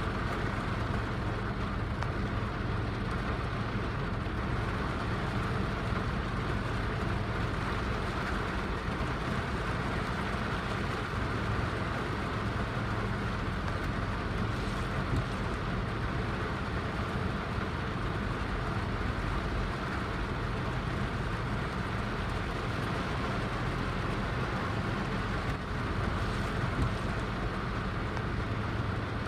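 Heavy rain falling steadily, an even hiss of noise with a constant low rumble underneath.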